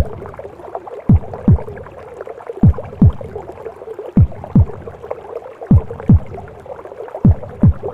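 Recorded heartbeat as heard inside the womb: deep lub-dub thumps in pairs, about one pair every second and a half, over a steady gurgling, whooshing womb-sound background.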